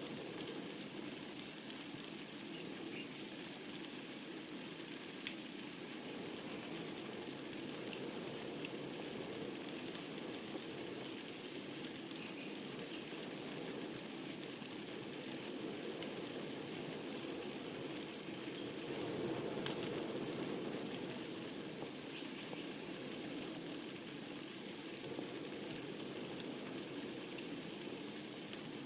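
Wood fire burning in a fireplace: a steady low rush of flames with scattered sharp crackles and pops, one louder pop about two-thirds of the way through.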